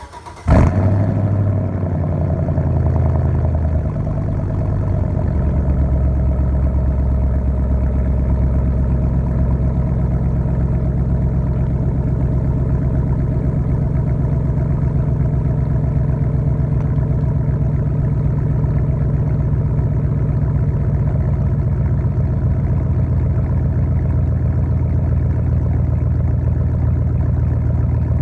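The 5.3-litre Vortec V8 of a 2006 Chevrolet Silverado, running through true dual 3-inch straight pipes, starts: it cranks and catches with a short flare, then settles into a loud, steady idle. The idle steps down lower about four to five seconds in and holds there.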